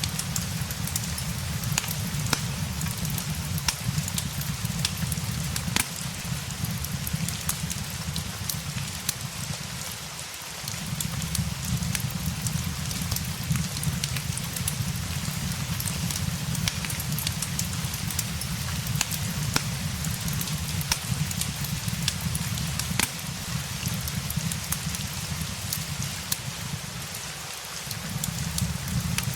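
Steady rain with the crackle and pops of a wood fire, over a low rumble that drops out briefly twice, about ten seconds in and near the end.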